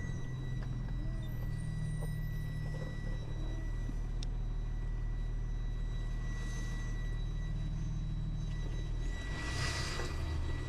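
Delivery truck's engine running with a steady low rumble inside the cab, with a faint steady whine over it. There is a short hiss about nine seconds in.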